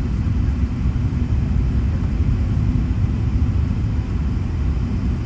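Steady low rumble of cabin noise inside an Airbus A380 airliner: engine and airflow noise, even throughout.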